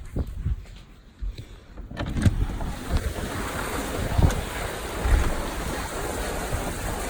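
Wind buffeting the microphone in gusty thumps, with a steady hiss of rain setting in about two seconds in.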